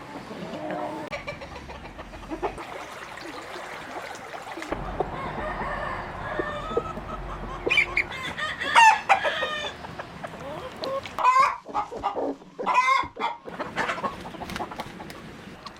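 A flock of chickens clucking, with several loud calls in the second half, including a rooster crowing.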